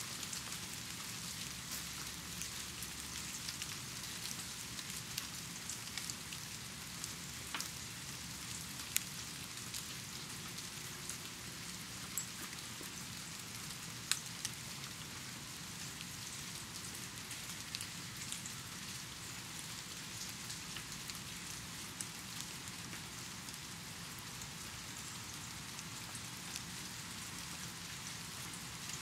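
Steady rain falling: a dense, even hiss with scattered sharper drops ticking through it. A few louder drops stand out, the loudest about fourteen seconds in.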